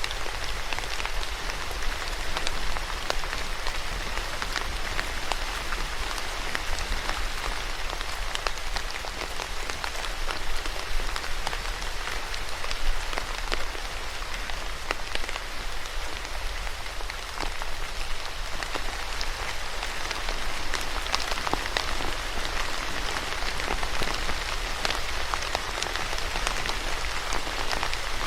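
Steady rain falling on a hard surface, a continuous hiss dotted with the sharp ticks of individual drops, over a low steady rumble.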